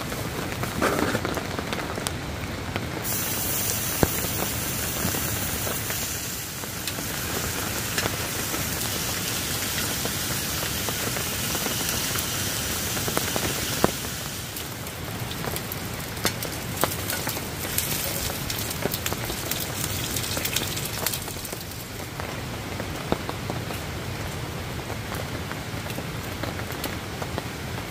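Steady rain pattering on a tarp shelter and the wet ground, with scattered sharp ticks of drops.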